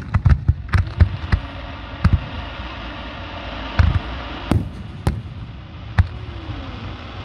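Aerial fireworks bursting: a quick run of sharp bangs in the first second and a half, then single bangs about once a second, over a steady hiss.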